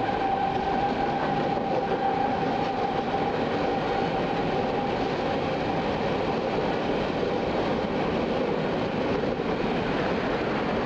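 Freight train rolling past, a steady rumble of wheels and cars on the rails. A thin steady high tone sounds over it and fades out about seven seconds in.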